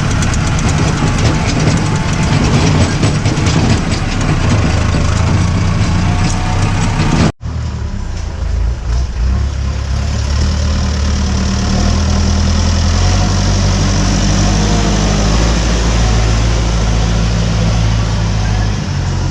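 Mahindra tractor's diesel engine running steadily under way, with a fast clattering rattle over it for the first seven seconds or so. The sound drops out for an instant, then the engine runs on more smoothly.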